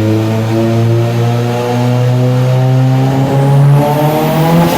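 Nissan SR20DET turbocharged four-cylinder running loaded on a chassis dyno, holding a steady note and then climbing in revs over the last second and a half as a dyno pull gets under way.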